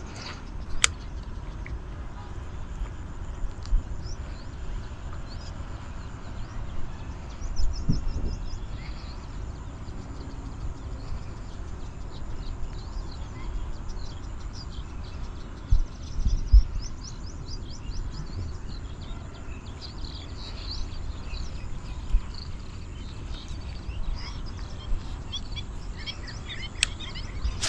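Small birds chirping and twittering over a steady low rumble of wind on the microphone, with a few low thumps about 8 and 16 seconds in.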